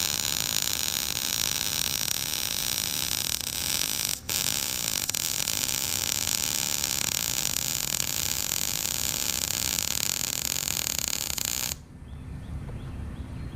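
Lincoln Electric 120-volt flux-cored wire-feed welder arc crackling steadily as a practice bead is laid on flat steel. It breaks off for an instant about four seconds in, then cuts off shortly before the end as the trigger is released.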